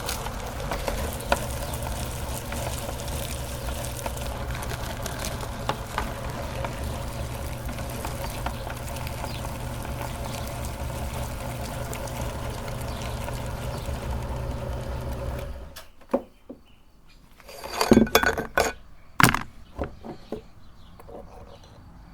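Electric meat grinder running steadily while grinding marshmallows, a low motor hum with light crackling and ticks. It switches off about three-quarters of the way through, followed by a few loud knocks and clatters.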